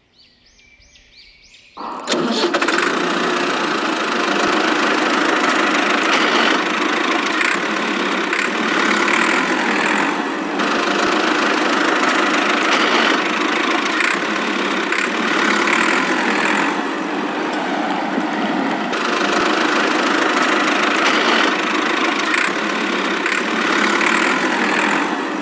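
A tractor engine starts about two seconds in and then runs steadily.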